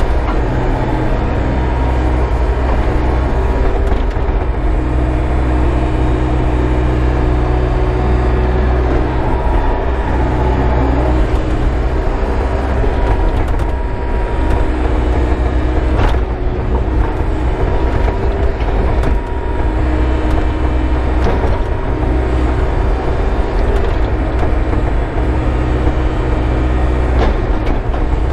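Excavator's diesel engine running steadily as it works, its pitch shifting a little a few times, with one sharp knock about halfway through.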